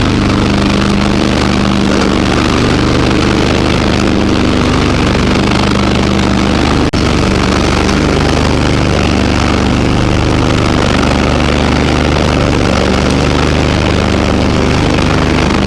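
Garden tractor engine running steadily at close range, with a momentary dropout about seven seconds in.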